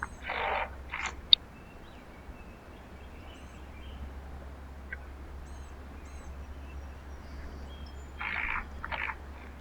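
Birds at a backyard feeder: two harsh, raspy calls about eight seconds apart, each followed by a shorter one, over faint high chirps from small birds. A sharp click comes just after the first pair.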